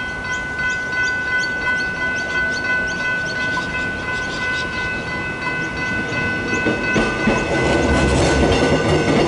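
Level crossing warning bells ringing rapidly, about four strikes a second. From about seven seconds in, an approaching train's rumble grows louder.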